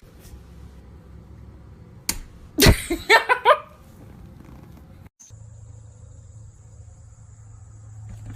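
A cat's call with sliding pitch, lasting about a second, comes just after a sharp knock about two seconds in. Later a steady low hum with a faint high whine sets in.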